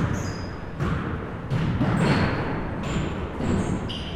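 Basketball bouncing on a gym floor in irregular thuds, with short high sneaker squeaks between the bounces.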